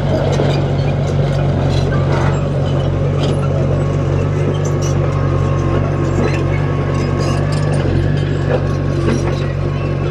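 Heavy diesel construction machine running steadily under load, with many short metallic clicks and rattles over the engine hum.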